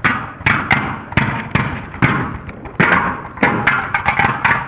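Spinning Beyblade tops clashing and knocking against the stadium in a battle, a run of sharp knocks two or three a second, each ringing briefly.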